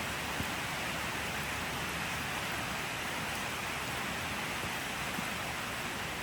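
Steady rain falling, an even hiss of drops with a faint single drop-tick now and then.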